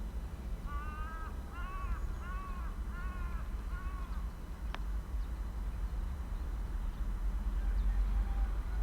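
A crow cawing five times in a quick series of arched, harsh calls, over a steady low rumble. A single sharp click follows shortly after the last call.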